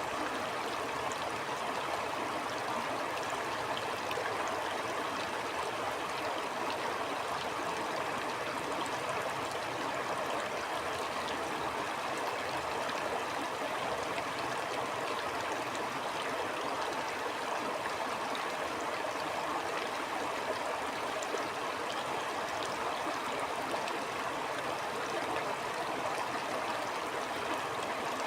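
Steady rush of a flowing stream over rocks, with small gurgles and trickles.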